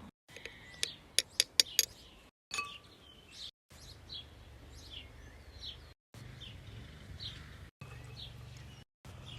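Small birds chirping over and over, short falling chirps, with a quick run of five or six sharp clicks about a second in and a low hum later on.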